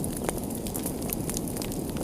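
Wood fire crackling in a fireplace: a steady low rumble of flames with many small pops and snaps.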